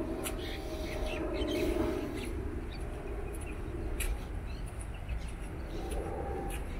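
Small birds chirping in short, scattered calls, over a low, steady background rumble.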